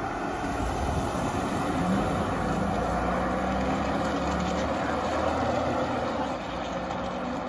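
Engine and road noise from inside a moving vehicle; the engine note steps up in pitch about two seconds in, then holds steady.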